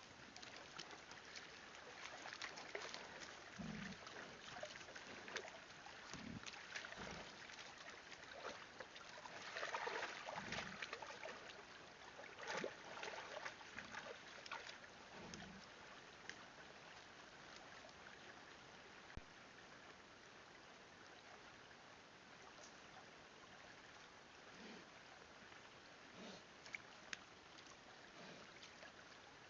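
Stream water running steadily, with scattered rustles and clicks and a few brief low sounds.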